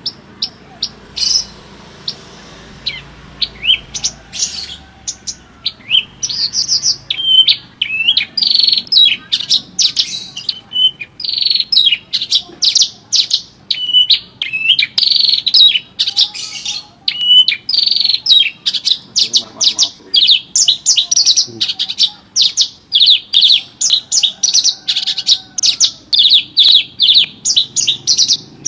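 Javan bush lark (branjangan) singing a fast, varied song of short high chirps, whistles and trills. The song is scattered at first and runs almost without pause from about six seconds in.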